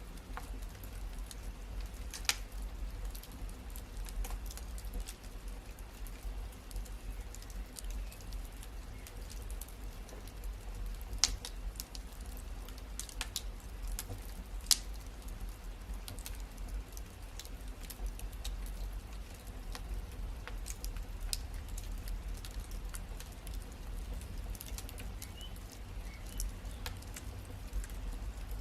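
Wood fire crackling in a fireplace: scattered small ticks and pops over a low steady rumble, with a few sharper pops, the loudest about eleven seconds in.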